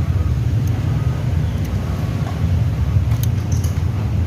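Scooter engine running steadily: a low rumble with a few light clicks.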